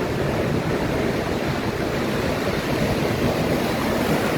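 Steady rush of Atlantic surf on a sandy beach.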